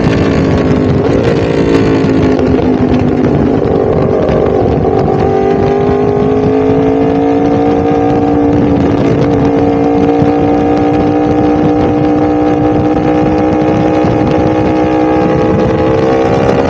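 A Yamaha R1's crossplane inline-four engine running at steady, fairly high revs. The pitch sags a little a few seconds in, then climbs slowly and evenly.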